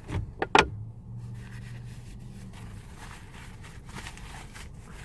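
Three sharp clicks or knocks in the first second, then the steady low hum of a car heard from inside the cabin, with a few faint taps.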